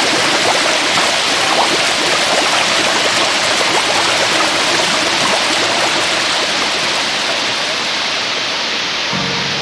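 Steady rush of splashing water, with soft music coming in near the end.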